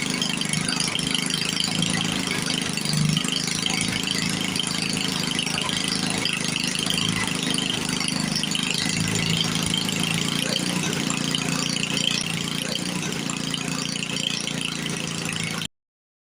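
1952 Briggs & Stratton Model 6 single-cylinder engine idling steadily all by itself, with its carburetor untouched. The sound cuts off suddenly near the end.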